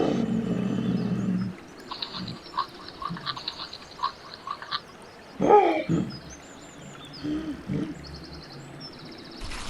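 Wild animal calls: a low pitched call for the first second and a half, then rapid high chirping, and a short loud call a little past halfway.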